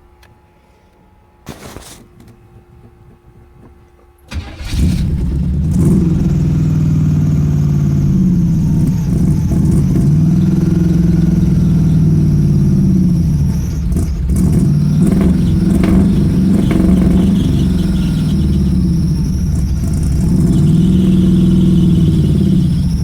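Pontiac Strato Chief engine catching about four seconds in and running loud through a freshly fitted homemade exhaust, its speed rising and falling again and again, then dropping away at the very end. The owner takes the surging and dying for the car running out of gas.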